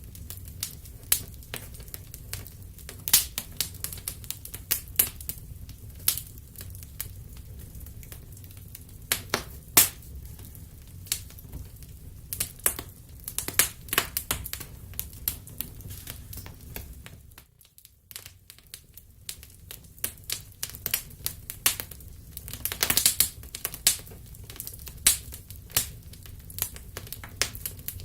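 Wood fire crackling in a fireplace: irregular sharp pops and snaps over a steady low rumble. The sound drops away for about a second roughly two-thirds through, and a dense run of crackles follows a few seconds later.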